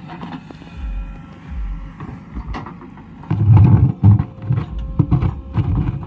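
JCB 3DX Plus backhoe loader's diesel engine running with a steady note, with short knocks and clanks of the digging gear; a little past halfway the engine swells louder and deeper under load for about a second.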